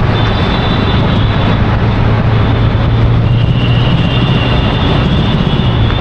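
Loud, steady vehicle noise with a low engine hum and a few thin, high whistling tones above it.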